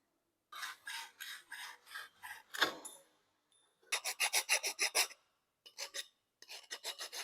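Junior hacksaw cutting through 22 mm copper pipe in rasping back-and-forth strokes: a slower run of strokes, a short pause, then a fast run of strokes and a few more near the end.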